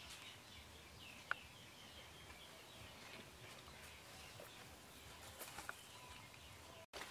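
Faint outdoor ambience with quiet bird calls: a run of short chirps in the first few seconds, and one sharp click about a second in.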